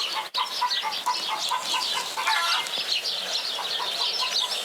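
Birds calling: a dense chorus of short, quick high chirps over a steady run of lower repeated notes.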